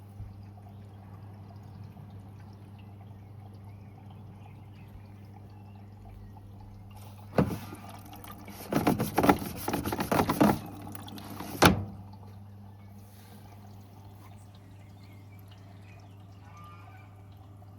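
Beko washing machine during its wash cycle: a steady low hum, with about four and a half seconds of loud splashing, pouring water starting about seven seconds in and cutting off abruptly.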